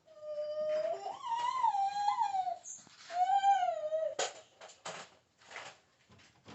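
Dog whining in two long, high, wavering cries, followed near the end by a few short knocks.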